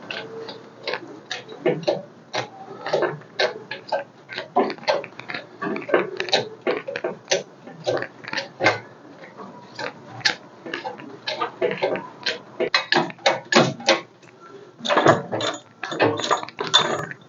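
Hand-pumped engine crane lifting an engine, its pump and boom giving an irregular run of sharp metal clicks and squeaky creaks, two to four a second, coming faster near the end.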